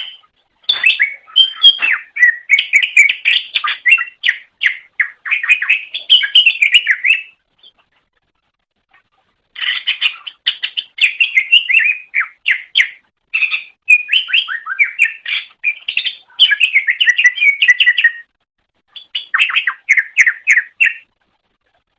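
Cucak ijo (green leafbird) singing a fast, varied chattering song of quick, high, sliding notes in long runs. The song stops for about two seconds partway through and breaks briefly near the end.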